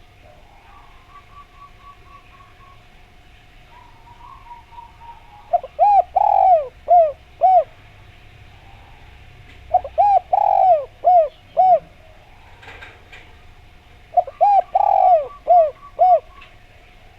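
Spotted dove (derkuku) cooing: three phrases a few seconds apart, each a quick pair of short coos, a longer middle coo, then two more short coos. A faint steady whine and some faint small-bird chirping lie underneath.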